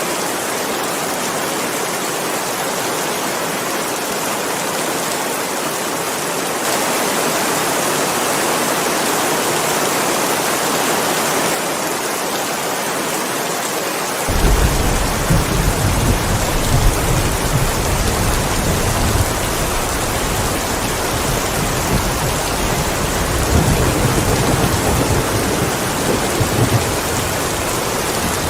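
Steady heavy rain. About halfway through, a low rolling rumble of thunder comes in under it, swelling and easing several times.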